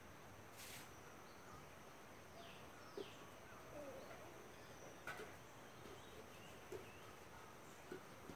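Near-silent ambience with faint, scattered bird chirps and three brief clicks.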